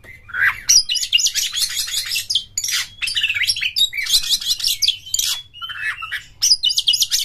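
Oriental magpie-robin (kacer) singing a fast, varied song of rapid trills and sharp chirps in phrases separated by short breaks.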